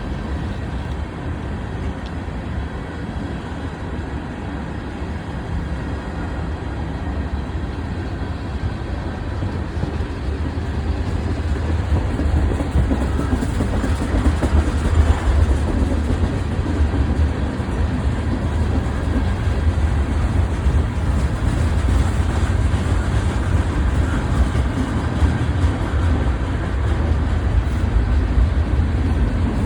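A freight train rolling past, a steady rumble of wheels on rails that gets louder about a third of the way in.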